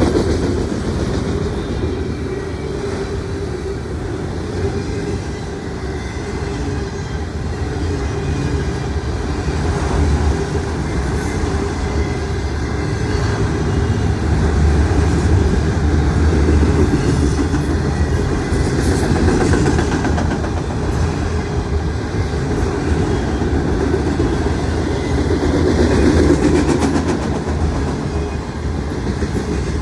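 Auto rack freight train rolling past: a steady low rumble of steel wheels on rail with a rapid clickety-clack of wheels over the rail joints.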